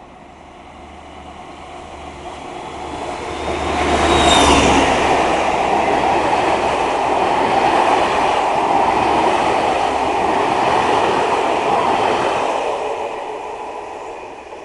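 Locomotive-hauled passenger train passing close by: the noise builds over about four seconds, peaks as the locomotive goes by, holds steady while the coaches roll past, then fades away near the end.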